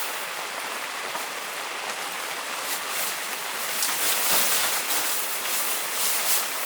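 Heavy rain falling: a steady hiss that swells louder about four seconds in and again near the end.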